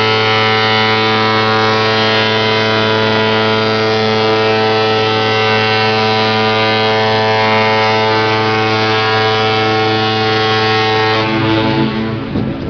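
Cruise ship's horn sounding one long, steady blast at a single deep pitch, cutting off about eleven seconds in.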